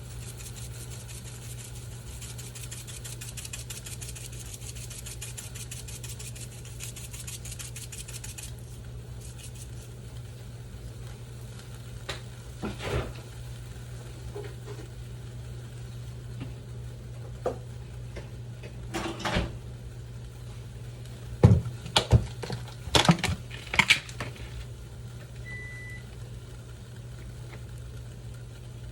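Pots, pans and utensils clanking on a stovetop, a few scattered knocks and then a louder cluster of clanks about three-quarters of the way through, over a steady low hum. A fine, fast crackle runs for the first eight seconds or so, and a short beep sounds near the end.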